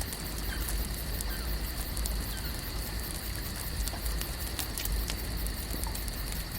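Lake ambience: a steady high-pitched drone over a low rumble, with scattered sharp crackles through it.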